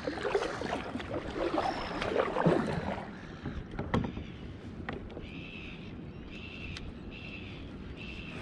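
Kayak paddle strokes dipping and splashing in the water for about three seconds, then a couple of sharp knocks. After that comes a string of short high-pitched calls, a little more than one a second.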